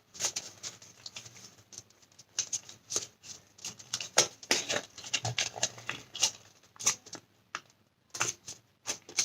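Origami paper being folded and creased by hand: irregular crisp crackles and rustles.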